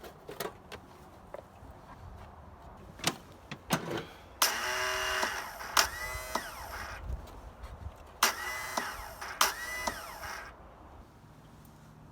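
Lawnmower engine being cranked in three loud bursts. Each has a whine that rises, holds briefly and falls away, after a few light clicks.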